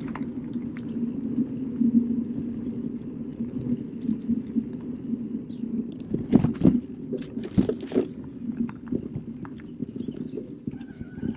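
Electric mountain bike rolling over a forest trail: a steady rough rumble of tyres and wind, with a few sharp rattling knocks from the bike over bumps about six to eight seconds in.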